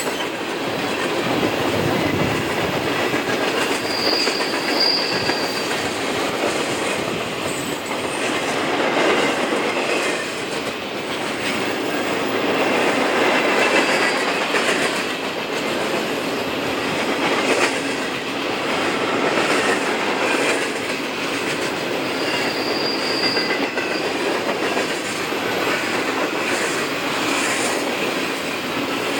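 Freight train cars rolling past, wheels clicking over the rail joints. A brief high wheel squeal comes twice, about four seconds in and again about twenty-two seconds in.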